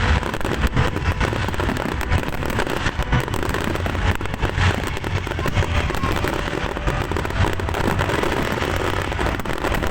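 Fireworks going off in a dense, continuous barrage of rapid cracks and bangs over a steady low rumble.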